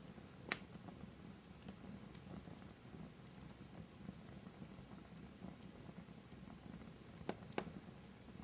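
Wood fire burning in a fireplace: a faint, steady low rustle with scattered small crackles, one sharp pop about half a second in and two more in quick succession near the end.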